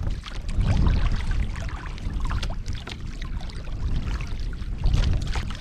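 Water lapping and splashing against a kayak hull, with gusts of wind rumbling on the microphone, strongest about a second in and again near the end.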